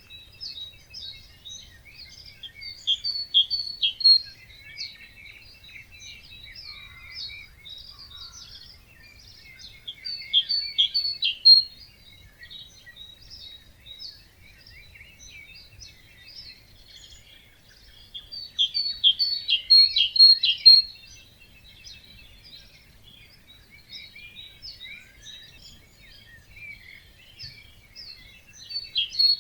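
Songbirds singing in an early-morning chorus: a loud, high trilled song phrase returns roughly every eight to nine seconds over steady quieter chirping from other birds.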